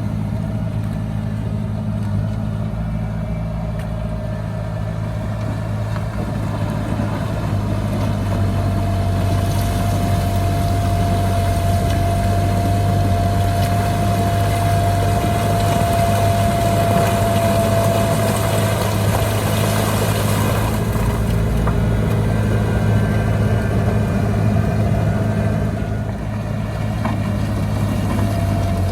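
Heavy diesel engine of earthmoving machinery running steadily, with a steady high whine over the engine drone that is strongest through the middle.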